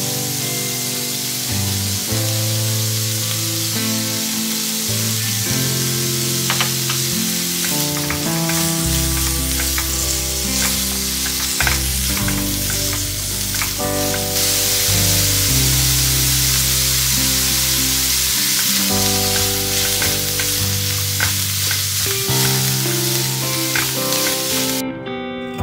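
Cauliflower florets sizzling in hot oil in a non-stick frying pan, stirred with a silicone spatula, with scattered light clicks of the spatula against the pan. Background music runs underneath, and the sizzling cuts off abruptly near the end.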